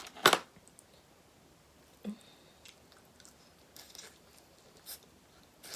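Close-up eating sounds of a person chewing crab meat: a sharp bite just after the start, then scattered soft, short chewing clicks.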